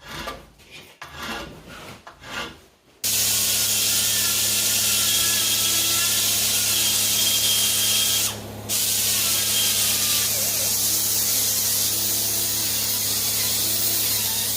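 Electric grinding tool running steadily against a TIG-welded cast aluminium rearset mount, grinding the weld bead smooth. It starts about three seconds in after some uneven scraping, and stops briefly a little past halfway.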